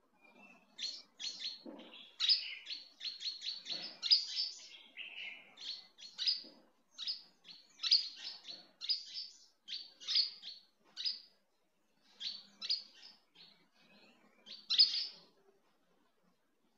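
A small bird chirping over and over in quick short, high calls, two to four a second, with brief gaps around 11 and 13 seconds in.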